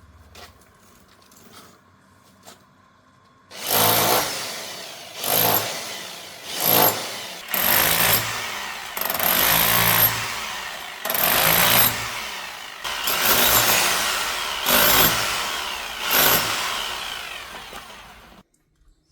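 A power tool run in about nine bursts, each rising sharply and easing off. It starts a few seconds in after some faint clinks and cuts off near the end.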